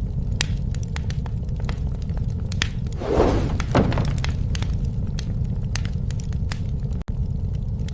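Wood campfire burning: a steady low rumble of flames with frequent sharp crackles and pops, and a louder crunching burst lasting about a second, some three seconds in.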